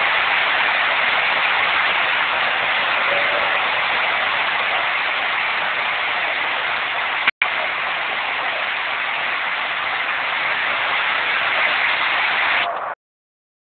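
Heavy rain pouring down as a steady, even hiss. The sound drops out for an instant about halfway through and cuts out completely just before the end.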